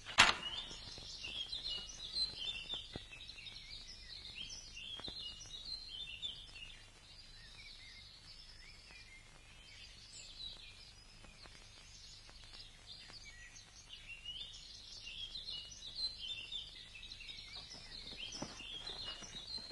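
Small birds chirping and singing over faint background hiss, a steady scatter of short, high chirps.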